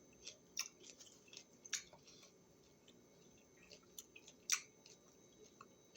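Faint chewing of a raw vegetable snack: scattered soft, wet mouth clicks, the loudest about four and a half seconds in.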